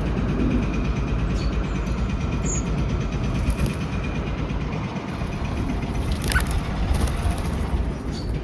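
Steady low outdoor rumble, with a single short high chirp about two and a half seconds in and a sharp click near six seconds.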